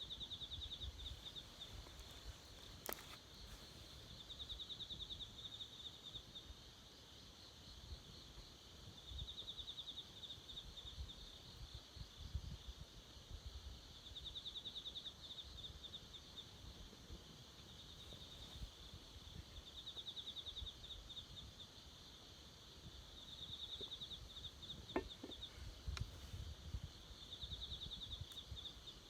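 Insects trilling in repeated bouts of a second or two, a fast pulsing buzz, over a low rumble, with a couple of sharp clicks.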